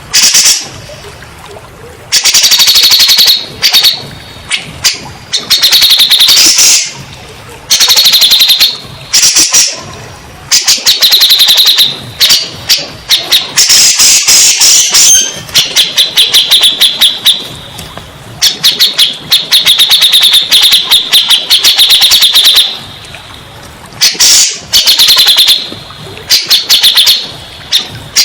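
Cucak jenggot (grey-cheeked bulbul) singing loudly in repeated bursts of fast chattering notes, each burst a second or two long with short pauses between.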